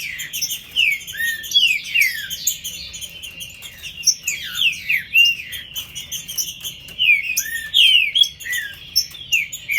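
Green-winged saltators (trinca-ferro) singing in cages, loud whistled phrases of short falling and curving notes overlapping one another without a break, as birds answer each other during a song warm-up.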